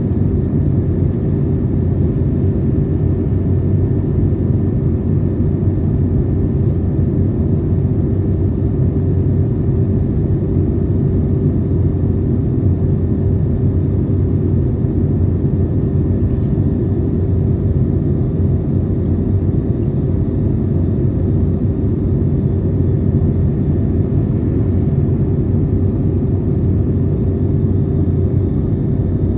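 Steady cabin noise of an airliner in flight: an even low rumble of engines and airflow with a faint constant hum, unchanging throughout.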